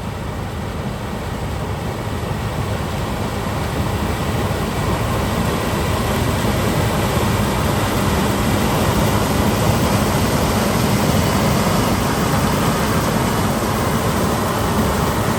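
Combine harvester running steadily at work, a dense engine and machinery noise that grows gradually louder over the first several seconds.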